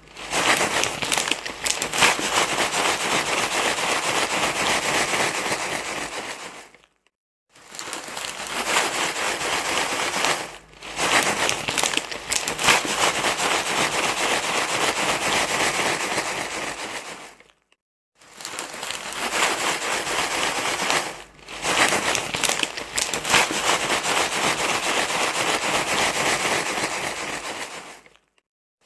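Loud crinkling, rustling noise, as of something being crumpled and rubbed, in stretches of several seconds with short silent breaks: a rustle sound played to soothe a crying baby.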